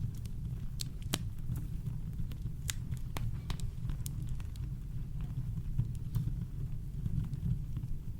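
Campfire crackling: scattered sharp pops and snaps over a steady deep rumble of brown noise. The pops come thickest in the first half and grow sparse after that.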